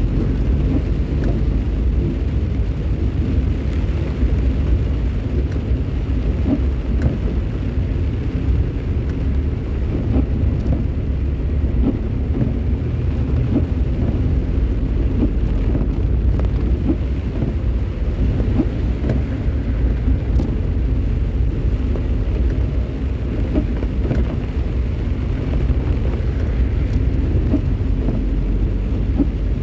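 Steady low rumble of a vehicle driving on a wet road in the rain, engine and tyre noise mixed with the hiss of rain.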